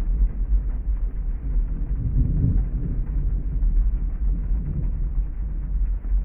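Heavy rain and thunder heard muffled from inside a parked car, a steady deep rumble that swells about two seconds in.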